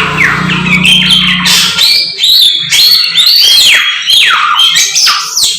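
Caged songbird (a samyong) singing loudly and non-stop, a rapid run of sharp, downward-sliding whistled notes.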